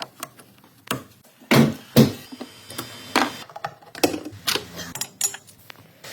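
A string of irregular clicks and knocks, the loudest two coming about one and a half and two seconds in.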